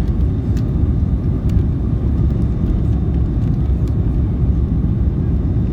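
Cabin noise of an Airbus A310-304 in its initial climb just after takeoff: a steady low rumble of its General Electric CF6-80C2 turbofans at climb power mixed with rushing airflow, heard from inside the cabin.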